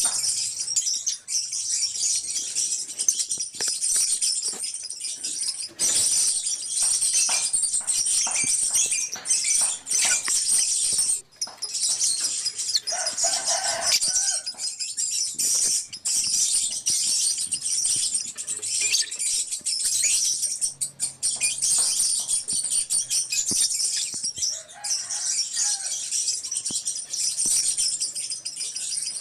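A colony of lovebirds chirping and chattering together: a dense, continuous, shrill din with many overlapping calls.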